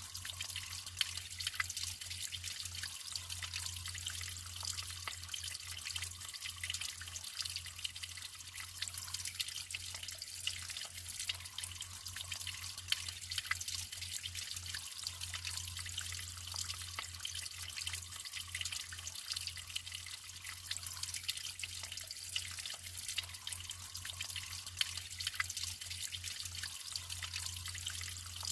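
Naturally flowing water running steadily, trickling and splashing with many small drips.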